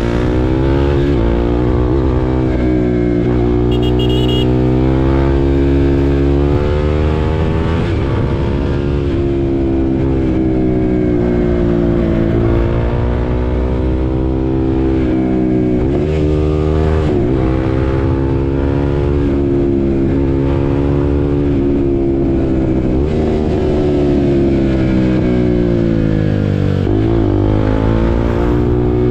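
2022 KTM RC 390's single-cylinder engine pulling hard through the gears, its pitch climbing under throttle and dropping sharply at each upshift, again and again.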